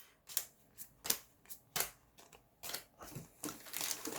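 Yu-Gi-Oh trading cards being flipped and slid through by hand one at a time: a string of short card swishes and snaps, about two a second.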